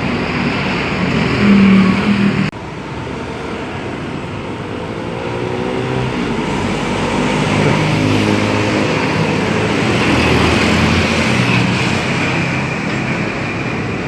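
Roadside traffic with heavy trucks driving past, engines and tyres on the road. There is an abrupt cut about two and a half seconds in, after which the engine noise swells and then eases off.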